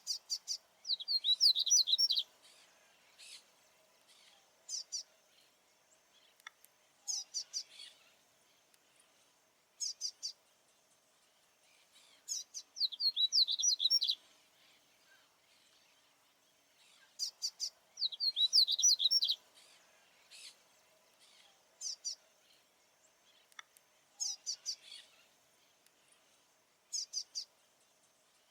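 A male papa-capim seedeater (Sporophila) singing in repeated phrases of quick, high, sharp notes, a phrase every couple of seconds, some of them long runs lasting a second or two. This is the territorial song a male uses to keep rivals away. A faint steady hum sits underneath.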